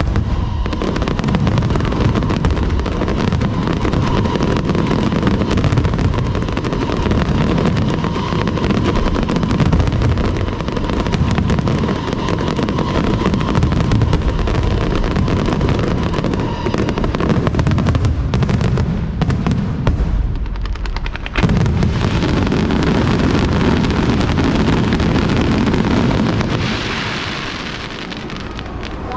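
Fireworks display: a dense, continuous barrage of booming shells and bangs. It thins briefly and then comes back suddenly louder about three-quarters of the way through, with a crackling hiss near the end.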